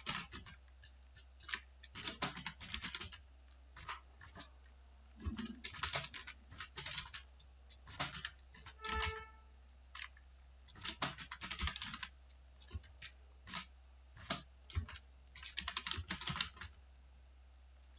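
Typing on a computer keyboard in quick bursts of keystrokes with short pauses between them. About halfway through, a brief pitched tone sounds once over the typing, with a steady low hum underneath throughout.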